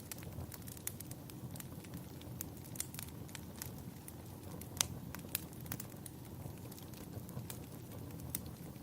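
Wood fire crackling in a fireplace: irregular sharp pops and snaps over a low steady rumble, with one louder pop about halfway through.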